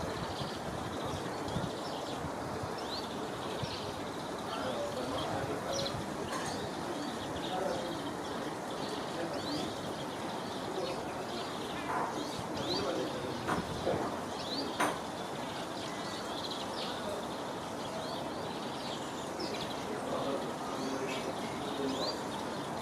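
Birds chirping: many short, high calls repeated throughout over a steady background din, with a few sharp clicks in the middle.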